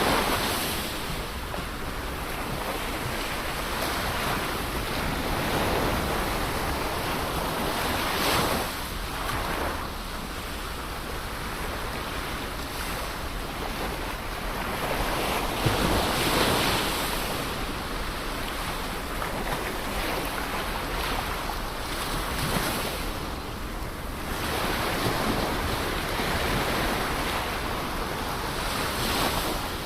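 Ocean waves breaking and washing on a shore, a continuous rush of surf that swells every several seconds as each wave comes in, with some wind noise on the microphone.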